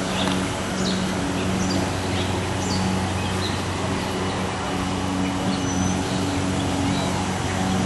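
Birds chirping in short calls over a steady mechanical hum.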